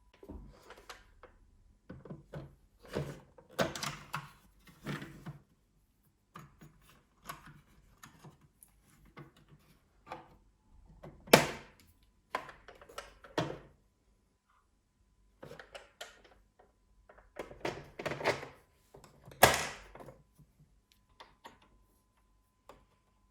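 Irregular knocks, clicks and clatter of parts and tools being handled during work on a Bernina 1230 sewing machine, with two sharper knocks, one about halfway through and one near the end.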